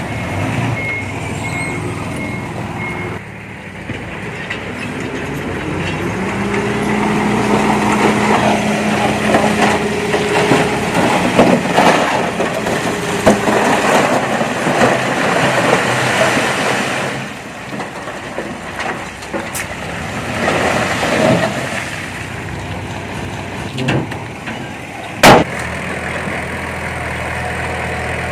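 Heavy diesel earthmoving machine: a reversing alarm beeps for about the first three seconds, then the engine revs up to a steady higher pitch. A long stretch of rough rumbling noise follows, and there is one sharp bang about 25 seconds in.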